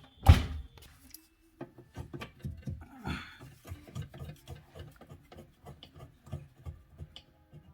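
A built-in dishwasher being handled and pulled at: one loud knock near the start, then a long run of irregular knocks and scraping rubs as it is worked loose from its cabinet opening.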